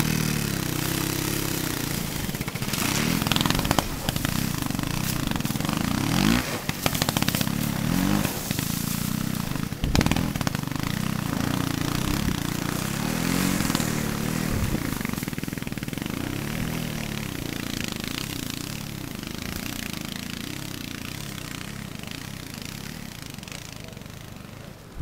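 Trials motorcycle engine revving up and down under throttle while riding, with some clatter, its sound slowly fading over the second half as the bike moves away.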